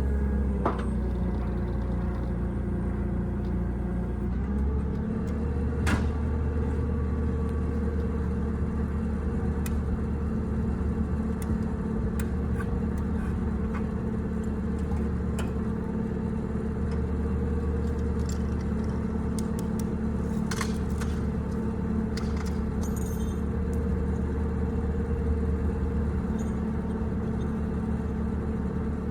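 An engine idling steadily, its pitch easing down slightly in the first few seconds, with a few light metallic clicks and clinks over it.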